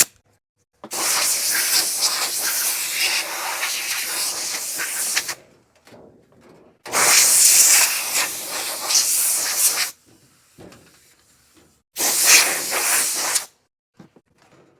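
Compressed air hissing from an air hose blow nozzle in three bursts, the first about four seconds long, the second about three, the last about a second and a half, blowing sanding dust off a freshly scuffed compartment door.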